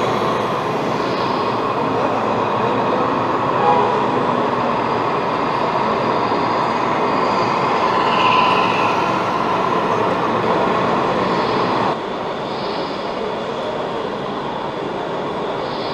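Steady rumbling background noise with no clear rhythm, dropping suddenly to a lower level about twelve seconds in.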